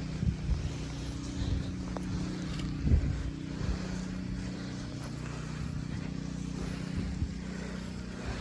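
A car engine running steadily at a low idle hum, with a few dull thumps, the loudest about three seconds in.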